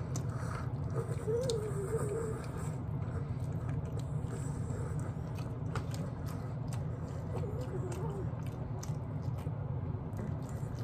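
Close-up chewing and gnawing of meat off a barbecue rib bone, with many short wet mouth clicks and smacks, twice broken by a short hummed sound.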